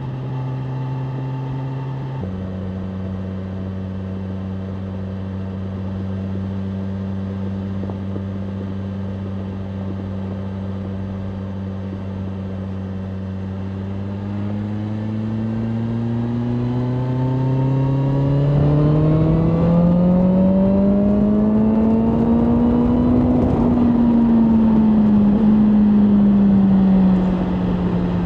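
BMW M1000R Competition's inline-four engine under way. The pitch drops with a gear change about two seconds in, and the engine holds a steady cruise. It then rises in a long pull as the bike accelerates, and eases off near the end.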